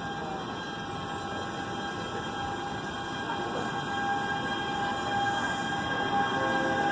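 NJ Transit passenger train running along the tracks, a steady rumble with a high steady whine over it, growing louder toward the end as it draws nearer.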